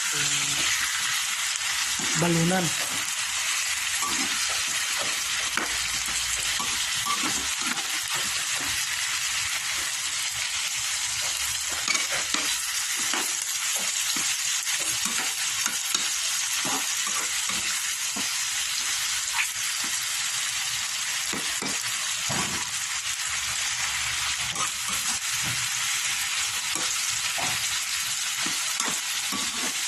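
Chicken gizzards sizzling in hot oil in a pan as they are sautéed for adobo, with a steady hiss and frequent short knocks and scrapes of the spatula stirring against the pan.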